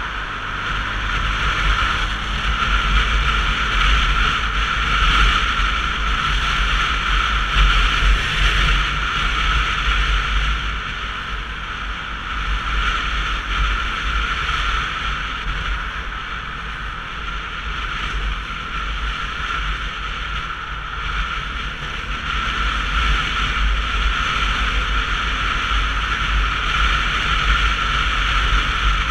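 Wind rushing over the microphone of a camera on a Sinnis Terrain 125cc motorcycle under way, with road noise mixed in. The rush swells and eases a few times.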